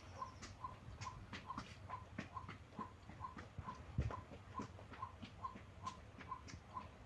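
Scattered light clicks and taps, with a faint, even ticking about two and a half times a second underneath.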